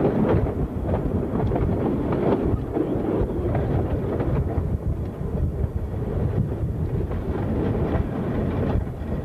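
A narrow-gauge railway carriage running along the track, heard from on board: a steady rumble with scattered clacks of the wheels on the rails.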